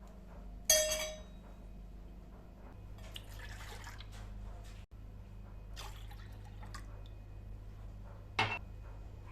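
Kitchen sounds: a sharp ringing clink about a second in, then liquid pouring and dripping, and a second sharp clink near the end, over a low steady hum.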